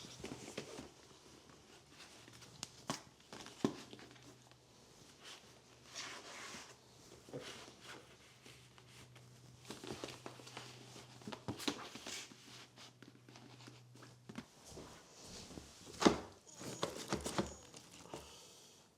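Household items being handled and put away: scattered clicks, knocks and rustles, with one sharper knock about three-quarters of the way through. A low steady hum runs under them and stops shortly before that knock.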